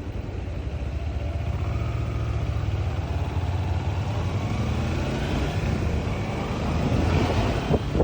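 Motorcycle engine running while riding, a steady hum with road and wind noise, growing a little louder near the end.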